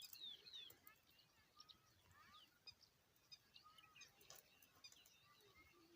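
Faint, scattered chirps of small birds: short calls that slide downward in pitch, coming at irregular intervals.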